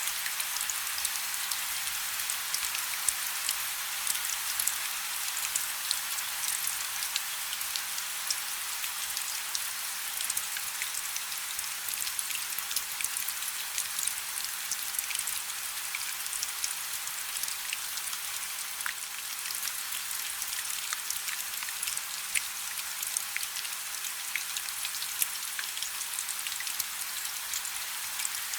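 Light rain falling steadily: an even high hiss scattered with many small, sharp drop ticks.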